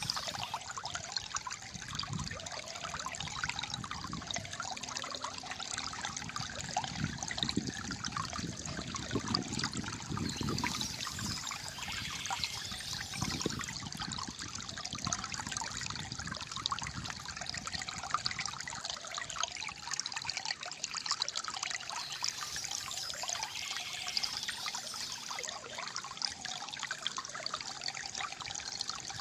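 Small stream of water trickling and gurgling steadily, with deeper gurgles swelling in the middle.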